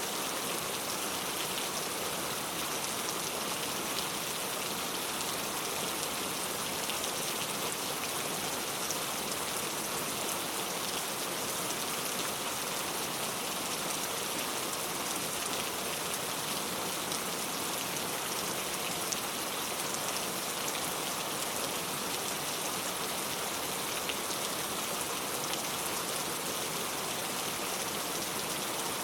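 Heavy rain falling steadily: a dense, even hiss of drops, with fine ticks of single drops hitting a surface.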